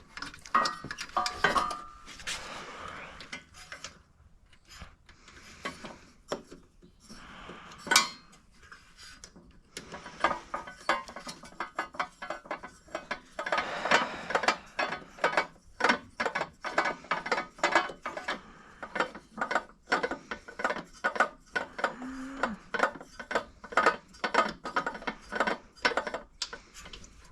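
Hand tools working on a snowblower as a part is taken off. Scattered metal clicks and clanks with one sharp knock about eight seconds in, then quick, fairly regular clicking, two to three a second, like a ratchet wrench turning a bolt.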